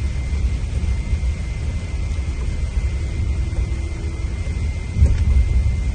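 Scania diesel engine of a Marcopolo Paradiso 1800 DD double-decker coach running steadily with a low rumble, a thin steady high whine over it, and a louder thump about five seconds in.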